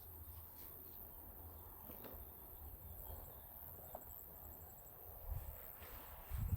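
Faint outdoor ambience: a low rumble with a thin, high insect trill, and two soft thumps near the end.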